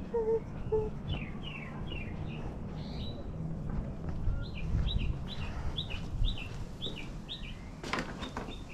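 A small songbird chirping: a few falling chirps, then a run of short, evenly repeated falling chirps about two a second. Underneath is a low rumble of wind on the microphone, and a sharp click comes near the end.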